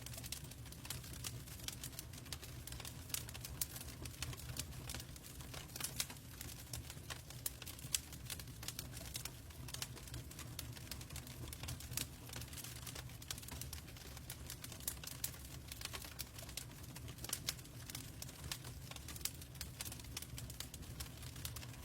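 Wood logs burning in a fireplace, crackling with many small irregular pops and snaps over a low, steady rumble.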